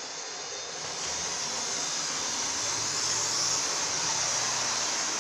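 OO/HO gauge model trains running on the layout: a steady whirring hiss of electric motors and wheels on track, growing a little louder about a second in.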